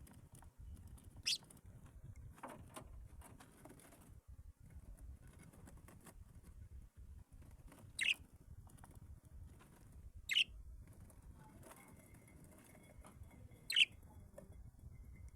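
Captive exotic birds giving four short, sharp chirps spread several seconds apart, each sweeping down in pitch, over a faint background hum.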